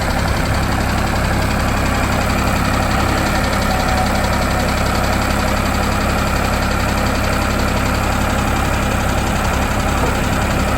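Diesel engine of a Vermeer Flex Track 75 tracked backhoe/trencher running at a steady idle, with an even, unchanging engine note.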